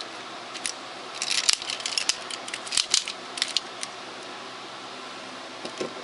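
Hard plastic Power Rangers Zord toy parts clicking and clattering as the figures are handled, in clusters about a second in and again around three seconds in, over a steady low hiss.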